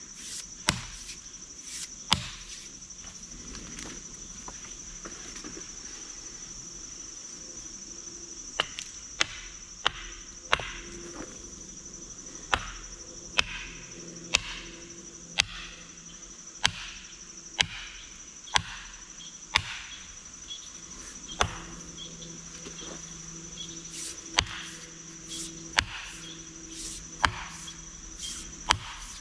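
Sharp knocks, a few early on and then about one a second from around eight seconds in, over a steady high-pitched insect drone.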